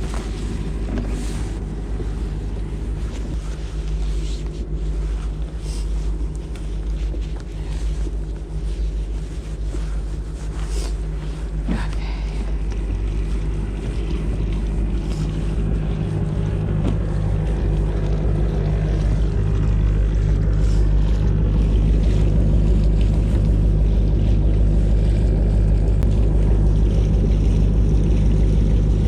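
Motorboat engine running steadily with a deep, even hum that grows louder about two-thirds of the way through.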